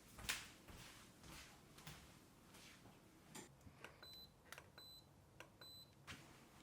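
Faint room sounds of soft clicks and rustles, with three short high electronic beeps near the middle, about three-quarters of a second apart, each just after a click.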